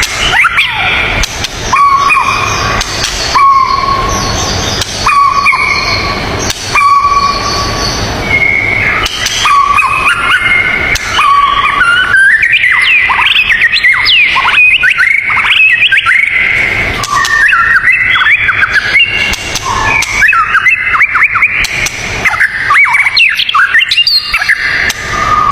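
Wild birdsong. The first half is short whistled notes repeated every second or so at two pitches. From about halfway it turns into a dense run of rapid, sweeping chirps and trills.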